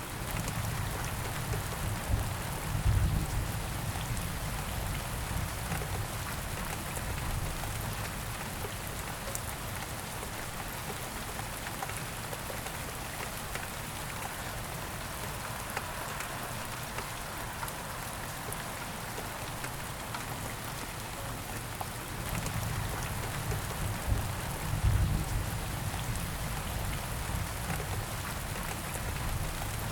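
Steady rain falling, an even hiss of drops. Two low rumbles swell under it, one a few seconds in and one about 25 seconds in.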